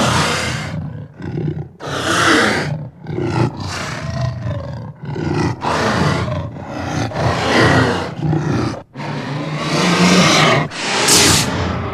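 A series of loud creature roars and growls, sound effects for a robot character, coming one after another in calls of a second or two with brief breaks between them.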